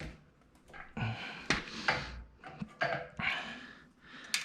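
Metal plotter-stand frame being pressed and stepped on to flatten a twisted center bar: a few sharp knocks among shuffling handling noise and breathy exhales.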